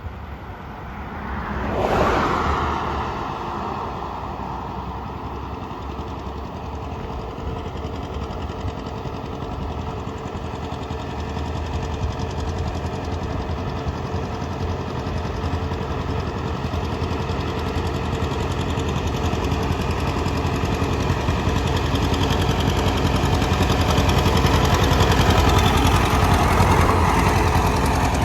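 Vintage tractor engine running steadily, with a brief loud swell about two seconds in and growing gradually louder toward the end.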